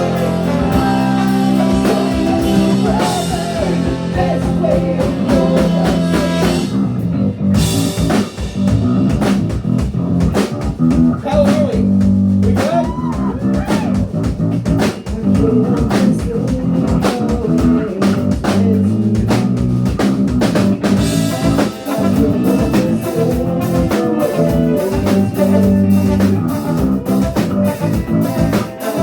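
Ska punk band playing live, with electric guitar, bass and drum kit. The cymbals drop out for about a second around seven seconds in, then the full band comes back.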